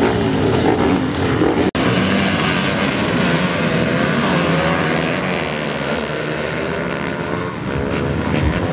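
Several motocross bikes racing on a grass track, their engines revving up and down in pitch as they run through the gears. The sound cuts out briefly a couple of seconds in.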